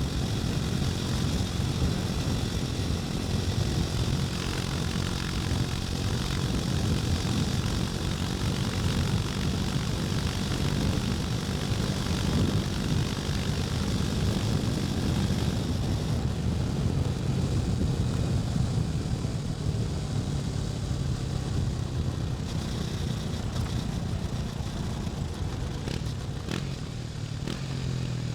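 KTM 250 Duke's single-cylinder engine running steadily while riding, with wind rush on the microphone. The rush eases about halfway through, and a few sharp clicks come shortly before the engine note drops near the end.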